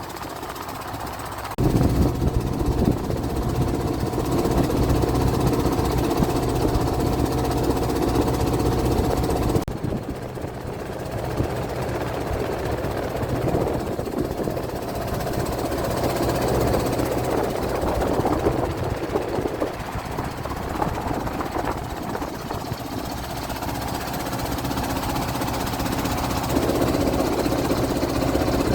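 Longtail boat engine running steadily with a rattly, knocking note, which gets sharply louder about a second and a half in.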